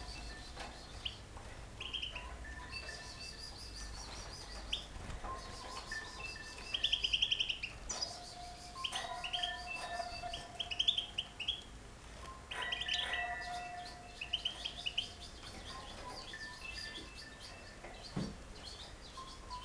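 Several caged songbirds chirping and singing, with rapid trills and short whistled notes overlapping throughout.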